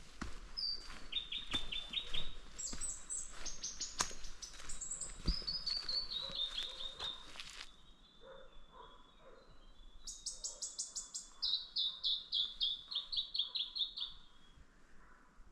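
Songbirds singing in quick runs of repeated high notes, several stepping down in pitch, in two bouts. Footsteps on the track click through the first half, then stop.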